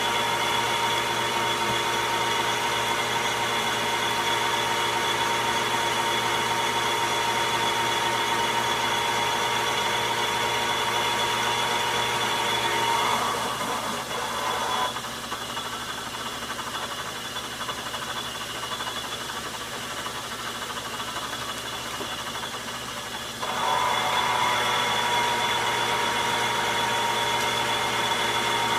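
Logan metal lathe running a turning cut on a steel nut, a steady hum with a high whine on top. About halfway through the whine drops out and the machine runs quieter for about ten seconds, then the whine comes back.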